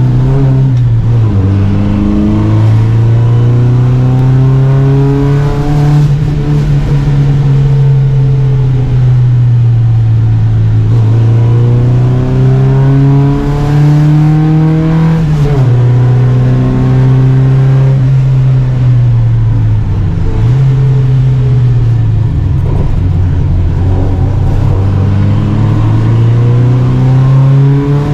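Volvo Amazon 121 race car's four-cylinder engine at racing speed, revving up through the gears. Its pitch climbs in long sweeps and drops sharply at gear changes and braking, several times over.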